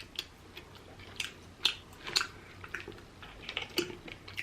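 Close-miked chewing of rotisserie chicken: irregular, quiet wet mouth clicks and smacks.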